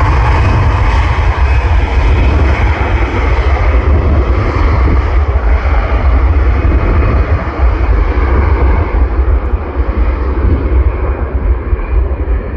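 Airliner engines loud as the plane passes close by, a dense rushing noise with a heavy low rumble; the higher part of the sound gradually fades away as the aircraft moves off.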